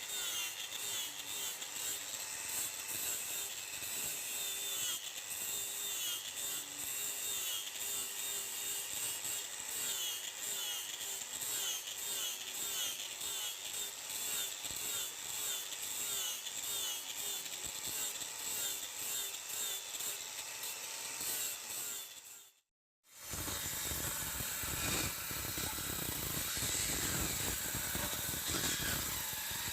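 Rhythmic scraping strokes of a hand tool working the steel of a rotary tiller blade being shaped into a machete, about one to two strokes a second. After a short break near the end, a steadier power-tool grinding noise takes over.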